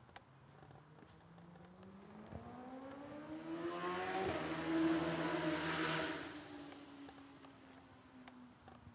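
A motor vehicle passing by: its engine note climbs in pitch as it accelerates, swells to a peak about five seconds in, then fades away.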